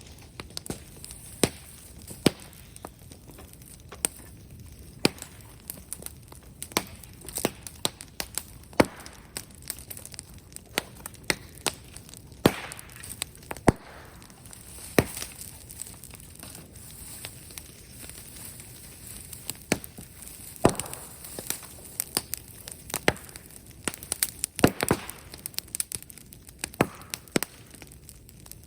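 Brushwood bonfire crackling, with irregular sharp snaps and pops, a few louder ones about halfway and near the end.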